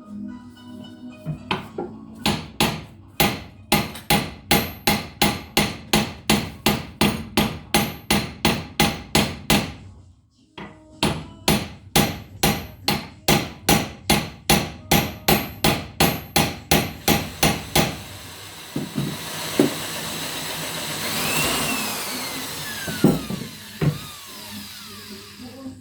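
A hammer striking metal in steady repeated blows, about three a second, stopping briefly about ten seconds in and then resuming. In the last third the blows give way to a steady rushing noise with a whine that falls in pitch.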